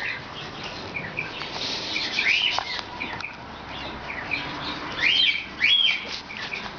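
Birds chirping, with louder rising calls about two seconds in and twice more around five to six seconds in.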